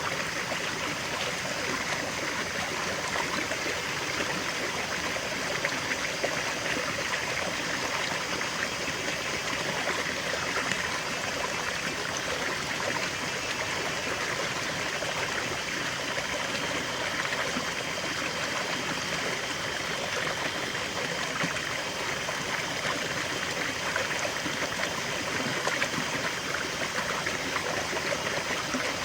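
River water flowing steadily, a continuous rushing and trickling with quick small splashes.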